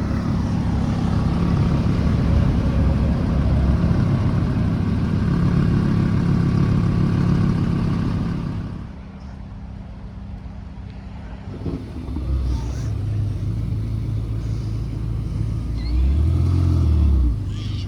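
Car engines at close range: one runs loudly and steadily, then fades away about nine seconds in. Another engine keeps idling, and near the end it is revved up once and drops back.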